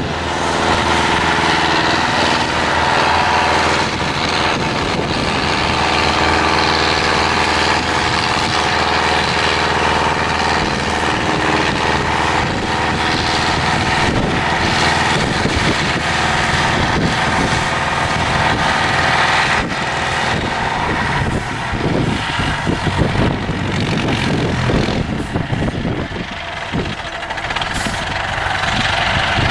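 Diesel engine of an IFA 4x4 trial truck running hard under load, its pitch and load shifting as it works. In the second half it turns rougher and more uneven.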